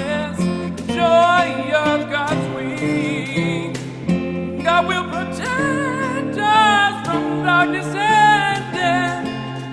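Music: a voice singing a slow melody over acoustic guitar.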